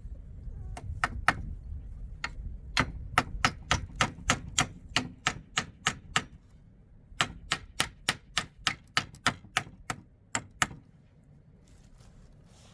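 A quick run of sharp taps or knocks, about three a second, with a pause of about a second a little past the middle. The taps stop about two seconds before the end.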